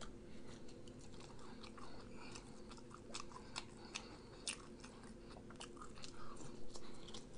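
A person chewing McDonald's french fries up close: faint wet mouth clicks and smacks, scattered irregularly throughout.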